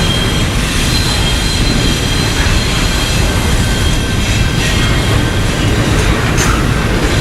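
Freight train rolling past on the rails: a steady heavy rumble of wheels on track, with faint high-pitched wheel squeal.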